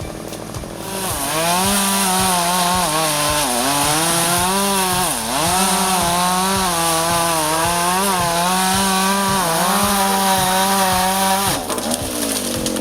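Chainsaw engine brought up to full throttle about a second in and held there, its pitch sagging twice as the chain bites into the wood, then dropping off near the end.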